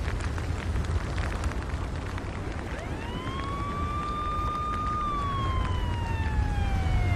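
A siren wails over a steady low rumble: about three seconds in it rises to a held pitch, slides slowly down, then rises again right at the end. Scattered crackles sit in the rumble before the siren starts.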